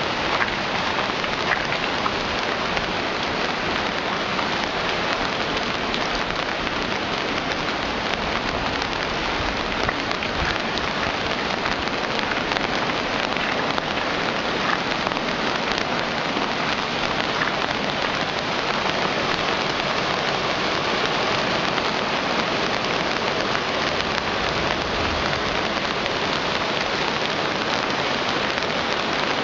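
Rain falling steadily on hard ground during a storm: an even, unbroken rush with scattered drops ticking.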